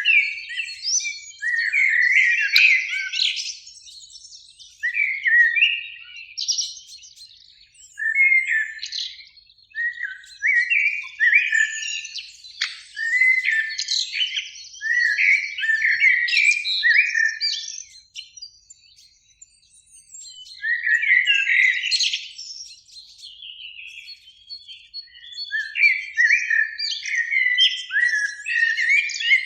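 Eurasian blackbirds singing: a run of short fluty, warbling phrases separated by brief pauses, with a longer lull about two-thirds of the way through.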